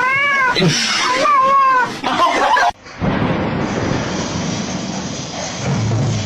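A domestic cat meowing in a few drawn-out calls that rise and fall in pitch. After about three seconds this gives way to a steady hiss with a low rumble.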